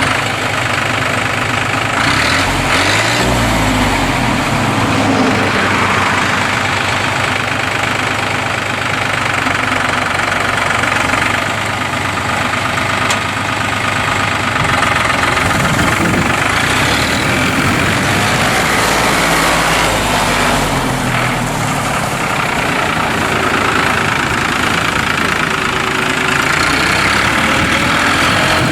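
New Holland TT60A's three-cylinder diesel engine running, its speed rising and falling a few times.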